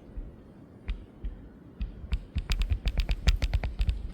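Camera arm popping and cracking in the bitter cold: a few scattered clicks, then from about two seconds in a fast, dense run of sharp clicks, over a low wind rumble on the microphone.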